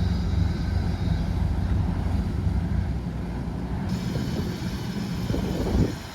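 A heavy engine running steadily with a deep, even rumble. There is a louder knock just before the end.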